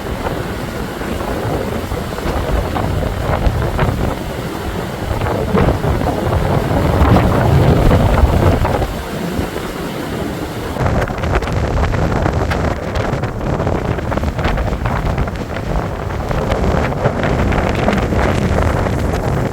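Strong blizzard wind buffeting the microphone in gusts, a loud rushing rumble that swells about seven to eight seconds in and then eases.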